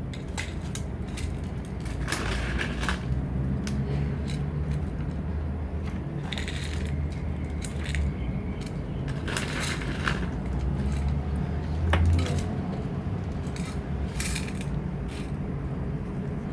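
Guinea pigs at feeding time: many light clicks and clinks, with short high-pitched squeaks coming every few seconds, over a steady low hum.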